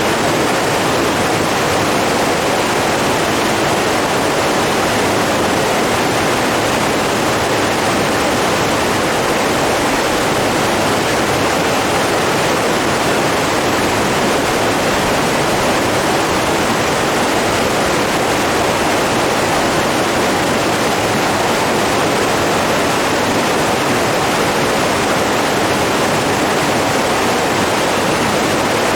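Rushing water, a steady, even flow with no rise and fall.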